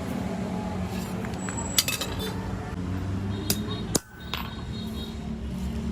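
A few sharp metallic clinks and taps of metal tools and parts being handled, over a steady low hum.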